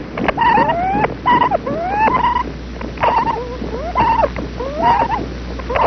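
Black woodpecker nestlings begging for food in the nest hole: a quick, repeating series of short calls, several of them rising in pitch, about two a second.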